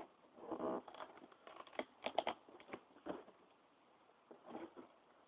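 Cardboard box being worked open by hand: irregular rustling, scraping and clicking, with a denser rustle about half a second in.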